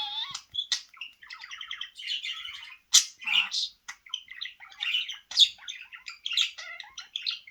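Budgerigar chattering and warbling without a break, a fast run of short chirps, with sharper, louder calls about three seconds in and again a little after five seconds.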